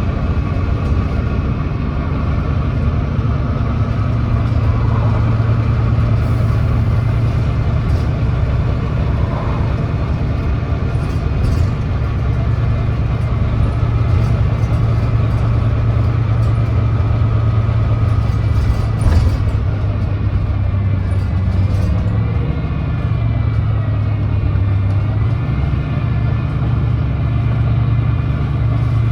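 Volvo D9B 9.3-litre diesel engine and driveline of a Volvo B9TL double-decker bus running steadily under way, heard on board as a continuous low drone with a faint whine above it. The bus is one known for a leaking exhaust.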